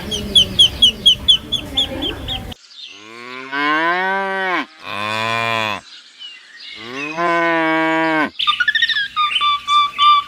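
A cow mooing three times, long pitched calls, the first about two seconds long. Before the moos comes a stretch of rapid high chirping over rough background noise that cuts off suddenly, and after them repeated bird chirping begins near the end.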